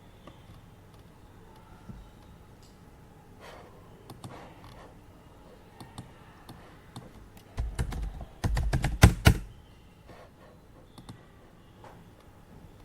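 Typing on a computer keyboard: scattered keystrokes, then a quick run of louder, heavier keystrokes and desk thumps about two-thirds of the way through. A faint steady air-purifier hum runs underneath.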